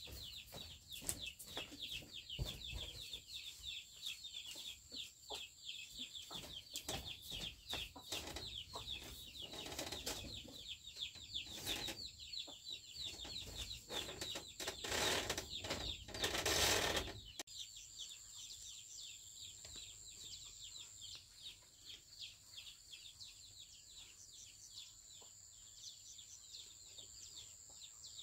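Birds chirping rapidly in many short, high, falling notes, with a steady high-pitched insect whine underneath. A loud burst of noise about 15 to 17 seconds in is the loudest sound.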